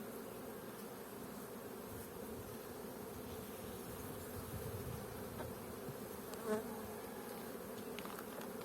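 Honeybees humming steadily around a hive that is open for inspection, with a brief louder sound about six and a half seconds in.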